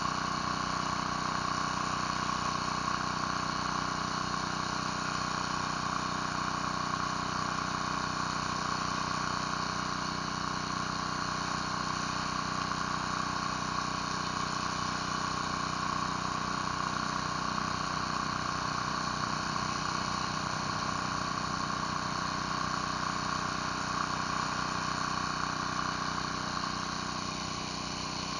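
Gas-engine pressure washer running steadily, its engine and pump going with water spraying onto concrete. It eases slightly near the end.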